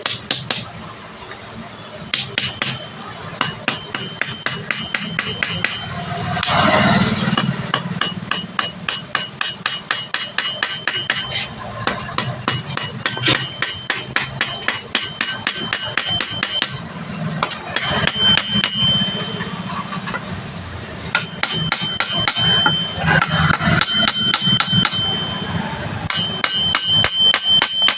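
Metal being struck over and over with a hammer, in runs of quick blows several a second with brief pauses between runs. Many strikes leave a high metallic ring.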